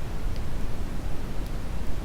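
Steady brown noise, a deep even rushing hiss with little change, played as a study background. A few faint ticks sound over it.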